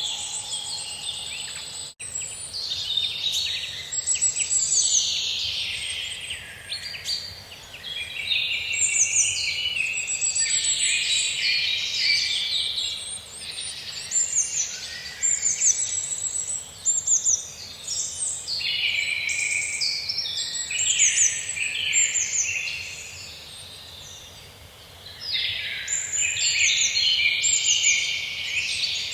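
Several songbirds singing at once in a dense, overlapping forest dawn-chorus-like mix of trills and chirps. The chorus thins out for a few seconds about three quarters of the way through, then picks up again.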